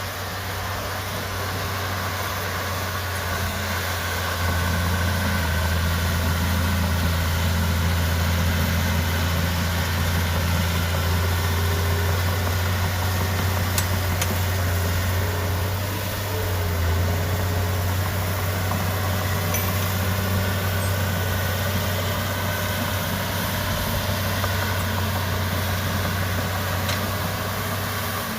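Heavy diesel engine of earthmoving machinery running steadily with a low, even hum, getting a little louder about four seconds in.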